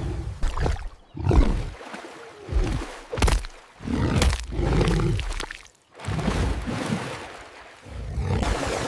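Big-cat roars and growls, a string of separate loud calls with short breaks between them.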